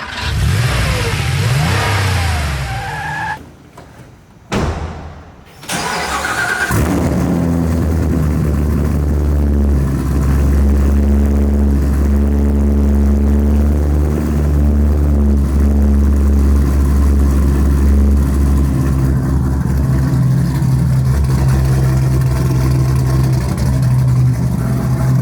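Car engines revving and accelerating hard, the pitch climbing and falling, then after a short break a steady low engine drone that runs on.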